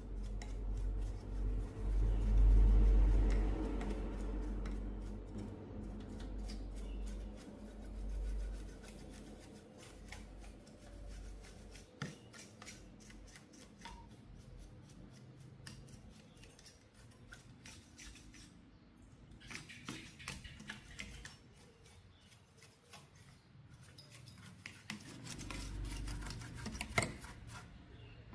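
Bench repair work on an old TV: rubbing, scraping and many small clicks of tools and parts being handled, with heavy low handling knocks and rumble through the first eight seconds or so.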